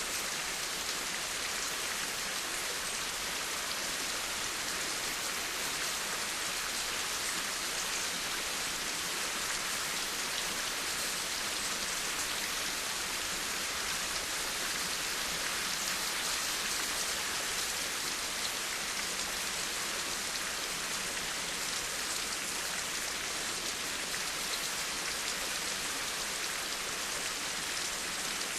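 Steady rain falling, an even hiss of many drops on a surface with faint individual drop ticks, unchanging in level.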